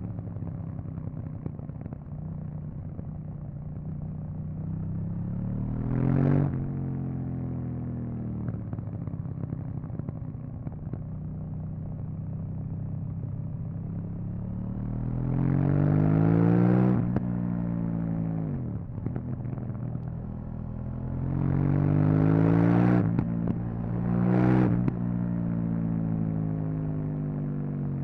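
KTM 790 Duke's parallel-twin engine running through its stock exhaust under way. The revs climb hard twice, around the middle and past twenty seconds, and fall away after each; there are shorter surges about six seconds in and near twenty-five seconds.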